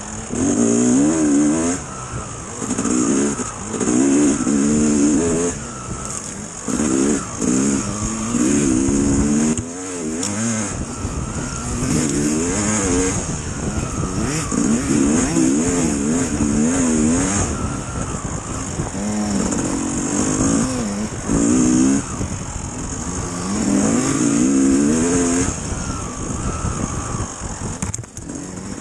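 Dirt bike engine revving up and falling back again and again as the throttle is opened and closed, its pitch climbing and dropping in repeated surges.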